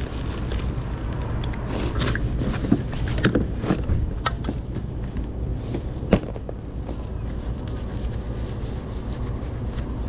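Wood fire crackling in a fire stand, irregular pops and snaps over a steady low rumble.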